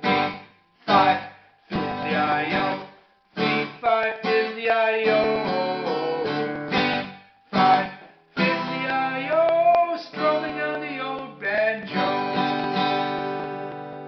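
Acoustic guitar strummed in short, stop-start chord phrases with brief gaps between them, ending on a chord that rings and fades.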